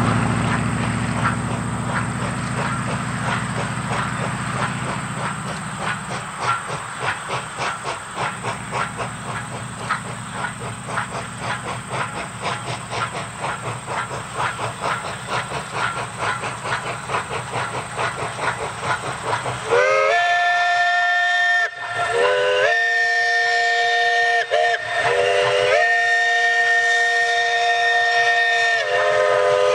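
Narrow-gauge train rolling, its wheels clicking steadily over the rail joints with a low engine hum that fades, then the train's chime whistle sounds three long blasts, each a chord of several notes that slides up in pitch as it starts.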